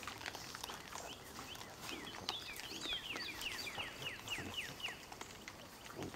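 A bird calls a quick run of about ten whistled notes, each sliding down in pitch, starting about two seconds in and lasting nearly three seconds. Throughout, there are scattered soft scuffs and clicks from pigs moving and rooting on dry ground.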